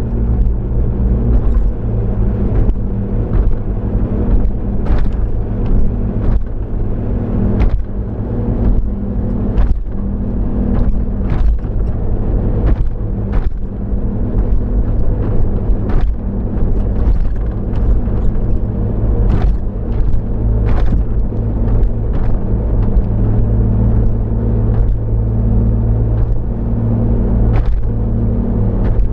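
A car driving, heard from inside the cabin: a steady low drone of engine and road noise, with frequent short sharp clicks or knocks at irregular intervals.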